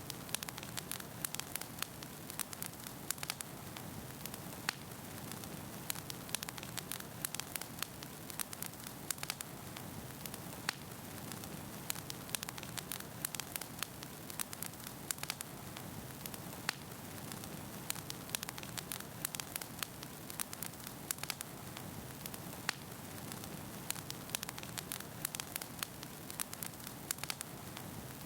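Wood fire burning in a fireplace: a steady low rush of flame with frequent sharp, irregular crackles and pops from the burning logs.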